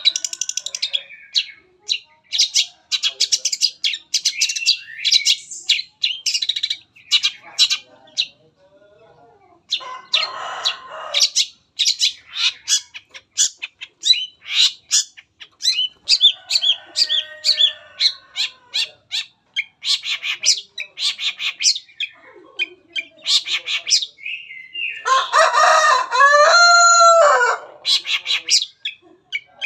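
Long-tailed shrike (cendet) singing a fast, varied song of rapid high chirps and trills with brief pauses, its 'full materi' mimicked repertoire. Harsher, scratchy passages come about a third of the way in and again near the end, the last with a wavering, gliding call.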